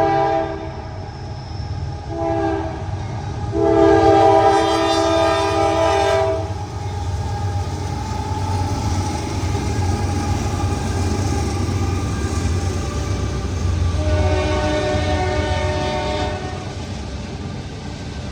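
Norfolk Southern freight locomotive's air horn sounding chord blasts over the steady low rumble of the train. One blast ends right at the start, a short one comes about two seconds in, a longer one about four seconds in, and another about fourteen seconds in.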